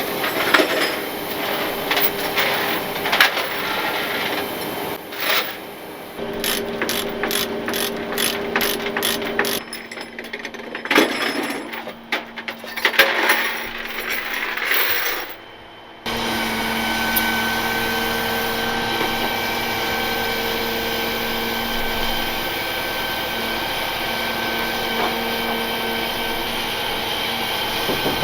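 Irregular metallic clicking and clanking with ratchet-like clicks, then about halfway through an abrupt switch to a steady mechanical hum.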